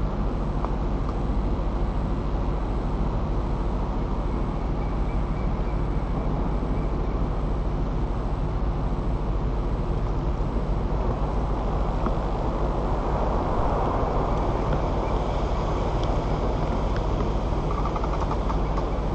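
Steady wind rumble and rushing on the nest camera's microphone high in the treetop, even throughout, with a faint thin high tone coming in about five seconds in.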